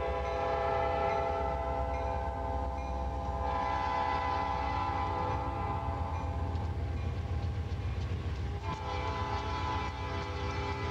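Freight train's air horn sounding a long blast that fades about two-thirds of the way through and sounds again near the end. Under it runs the low rumble of diesel locomotives rolling past close by.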